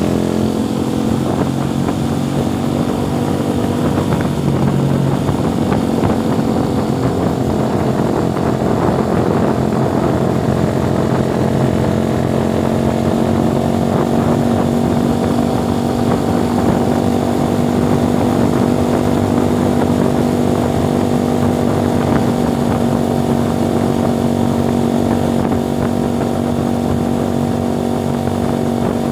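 Motorcycle engine running steadily with a constant drone, holding an even pitch throughout.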